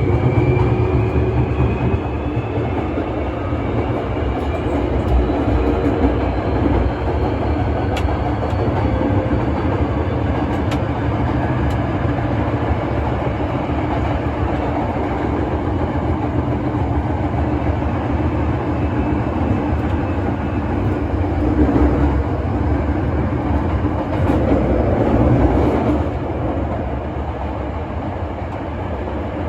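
8300 series electric train's VVVF inverter whining as the train accelerates, several tones climbing in pitch together over the first several seconds, then fading into the steady running noise of motors and wheels. The inverter has an unusual-sounding whine.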